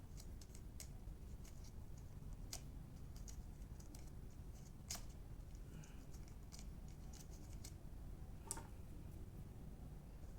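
Scattered small clicks and light scrapes, about a dozen over several seconds, from the plastic and metal parts of a hair dryer being handled during repair, over a low steady background hum.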